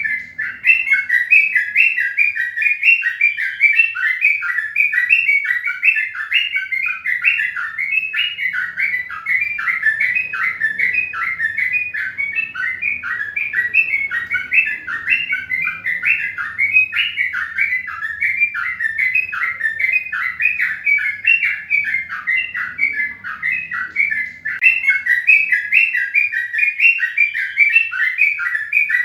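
Small birds chirping in a dense, unbroken chatter of short quick notes.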